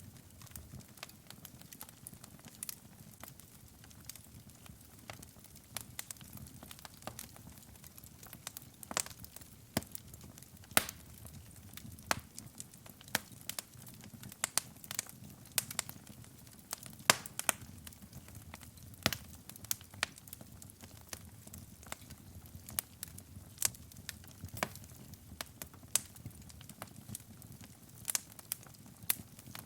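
Wood fire burning in a fireplace, crackling with irregular sharp pops over a low, steady rumble of flames.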